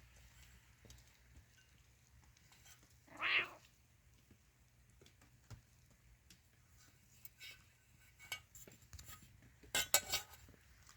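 A cat meows once, briefly, about three seconds in. Scattered light clicks and clinks follow, clustered near the end.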